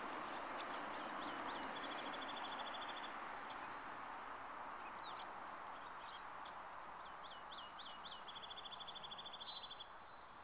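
A songbird singing twice: a few short slurred chirps, then a quick even trill, the second song near the end followed by a louder sharp call. A steady outdoor hiss lies underneath.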